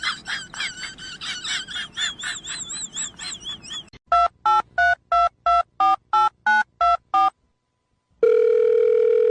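A run of rapid, high, wavering chirps, then ten quick telephone keypad tones as a number is dialed. After a short pause comes a steady phone tone held for about two seconds.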